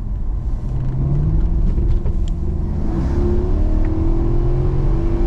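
Car engine accelerating, heard from inside the cabin under a steady low road rumble. The engine note climbs in pitch over the first second and a half, then climbs slowly again through the second half.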